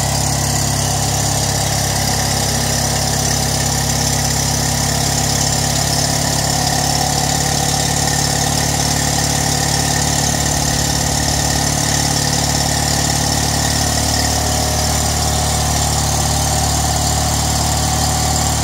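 Polski Fiat 126p's rear-mounted air-cooled two-cylinder engine idling steadily after a cold start in freezing weather.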